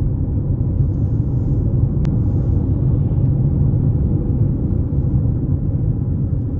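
Steady low rumble of road and engine noise inside a moving car's cabin, with a faint click about two seconds in.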